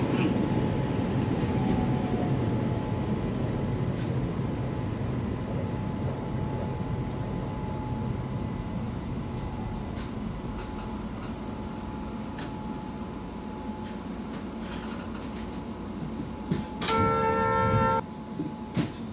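Keishin Line electric train moving off, with rail and running noise and a faint steady whine, slowly getting quieter. About 17 seconds in, a horn sounds for about a second on several pitches at once.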